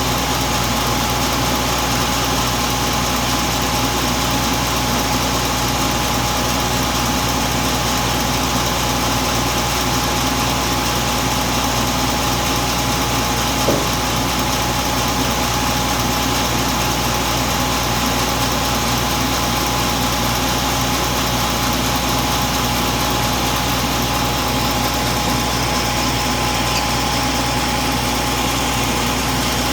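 A sawmill saw runs steadily through a freshly felled, wet teak log on the log carriage, with an even mechanical drone and a constant whine. There is a single short click about fourteen seconds in.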